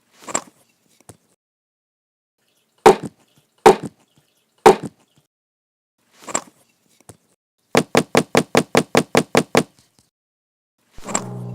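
Separate knocks and thuds with silence between them: three loud ones about a second apart, then a quick even run of about ten knocks at roughly five a second. Music starts near the end.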